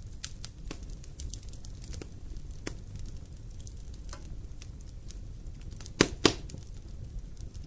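Wood fire burning in a fireplace: a low rumble of flames with scattered sharp crackles, and two loud pops close together about six seconds in.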